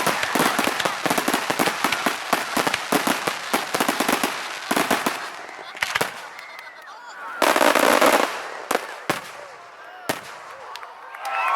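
Fireworks' closing barrage: rapid bangs and crackles for about five seconds, then scattered single bangs with one longer burst. Crowd cheering and whooping rises near the end.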